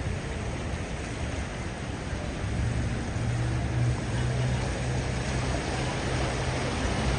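Heavy rain pouring steadily, with a low hum underneath that comes and goes.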